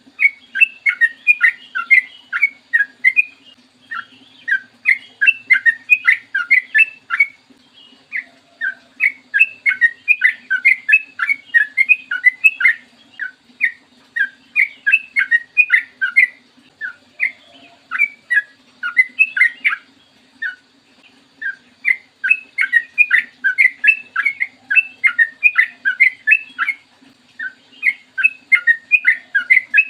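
Yellow-vented bulbul (trucukan) singing long runs of quick, bubbling notes, several a second, in phrases of a few seconds broken by short pauses. A faint steady low hum runs underneath.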